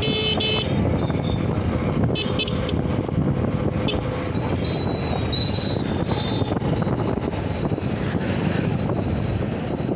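Wind buffeting the microphone over the road and engine noise of a Honda Shine SP 125 motorcycle on the move. Short horn toots sound at the start and again about two seconds in.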